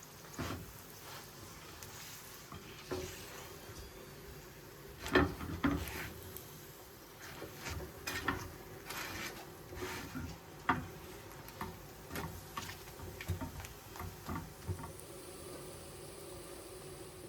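Light kitchen handling sounds: irregular clicks and knocks of utensils and dishes, the loudest about five seconds in, over a faint steady hum.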